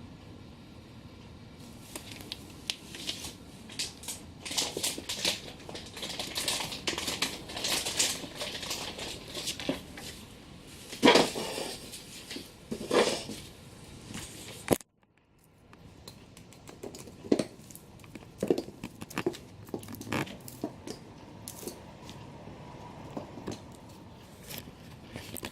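Irregular rustling, crinkling and light scratching in a small room, with two louder swells around the middle. The sound cuts out abruptly about halfway through, then the rustling resumes.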